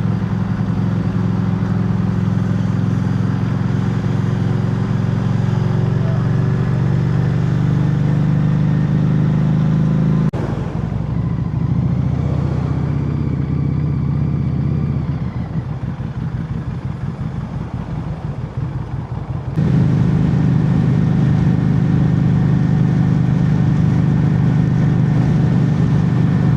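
Harley-Davidson Street 500's V-twin engine running steadily under way. About ten seconds in its note drops off abruptly and stays quieter for about nine seconds, then comes back just as suddenly at full strength.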